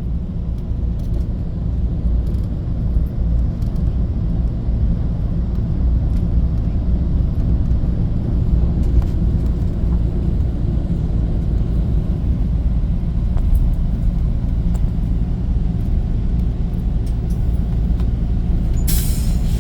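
Bus engine and road noise heard from inside the cabin: a steady low rumble. A brief hiss comes near the end.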